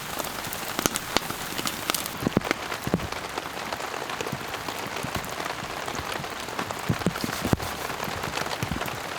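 Pouring rain falling steadily, with many individual drops striking sharply close by.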